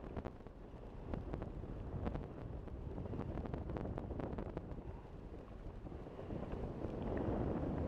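Wind buffeting the microphone: a gusty low rumble with scattered crackles, swelling louder near the end.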